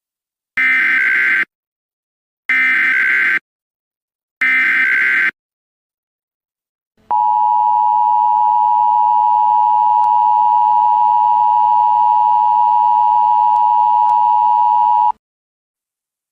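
Emergency Alert System broadcast opening for a National Weather Service severe thunderstorm warning. It begins with three short screeching data bursts of the digital SAME header, about a second apart, then a steady alert attention tone held for about eight seconds.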